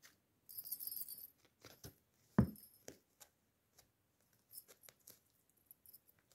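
Kittens playing in a crinkly play tunnel. A brief crinkling rustle, a soft thump about two and a half seconds in, and scattered light clicks and clinks.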